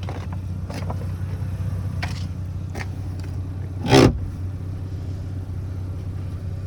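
Mazda RX-7 FD's 13B-REW twin-turbo rotary engine idling steadily while warming up. A few light knocks, and one sharp thump about four seconds in.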